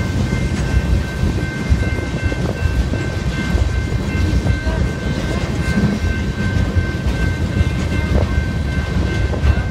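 Loaded freight flatcars carrying wind turbine components rolling past at close range: a continuous rumble and clatter of steel wheels on the rails. A thin steady high tone runs along with it.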